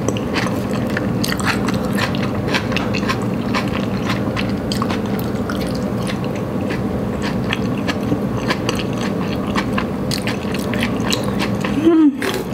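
Close-miked chewing of thick udon noodles, with many small wet mouth clicks and smacks. A short hummed voice sound comes just before the end.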